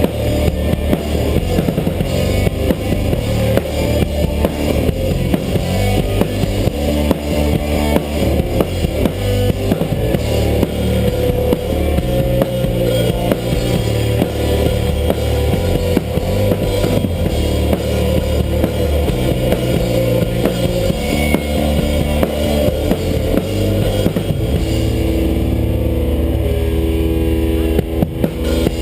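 A band playing: a drum kit keeps a steady beat under a bass line and guitar, with the drums thinning out near the end.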